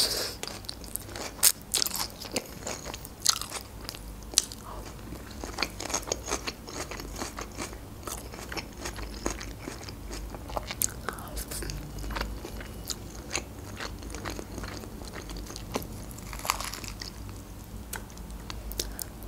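Close-miked chewing of a crunchy napa cabbage Caesar salad: a continuous run of sharp, irregular crunches as the fresh leaves break between the teeth.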